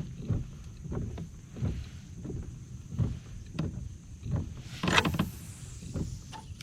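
A kayak under way, with a steady run of low thumps about every two-thirds of a second. A louder swish comes about five seconds in.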